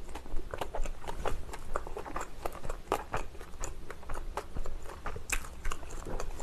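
Close-miked chewing of a spicy dumpling: irregular wet mouth clicks and smacks, several a second.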